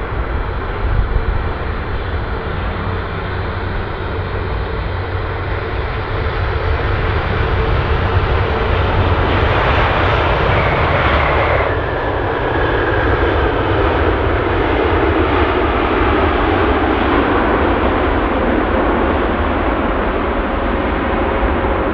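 Jet airliner landing close by, its engine noise swelling as it nears. A high engine whine cuts off about twelve seconds in, and a steady, loud rush of jet noise carries on after it.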